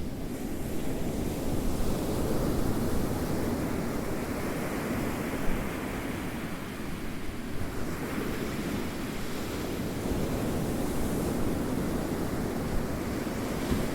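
Ocean waves rolling in and washing on the shore, a steady surf rumble with slow swells, one building about two seconds in and another about eight seconds in.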